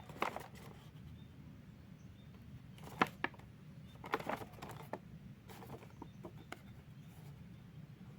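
A few light clicks and taps, one sharp one about three seconds in and a cluster a second later, over a low steady hum.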